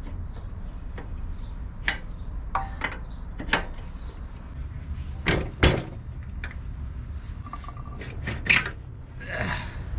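Tools and metal motorbike parts being handled: a handful of separate clinks and knocks, the loudest about five and a half and eight and a half seconds in, over a low steady hum.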